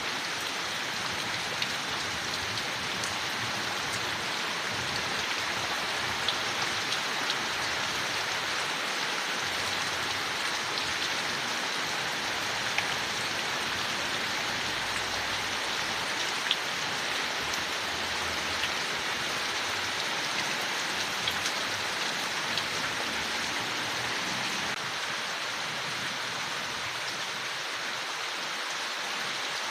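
Steady rain falling on leaves, an even hiss with scattered individual drops ticking through it.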